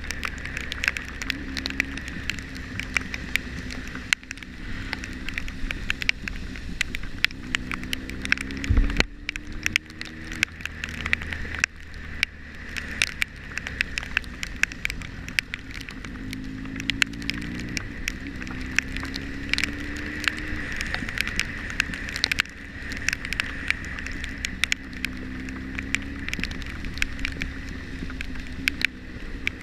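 A vehicle engine running on the move, its pitch climbing and dropping several times as it accelerates through the gears, over a constant patter of raindrops ticking on the microphone. A low thump comes about nine seconds in.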